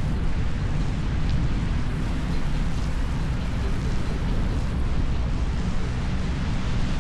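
Steady wind rumble buffeting the camera microphone while riding an electric unicycle, heaviest in the low end, with road noise underneath.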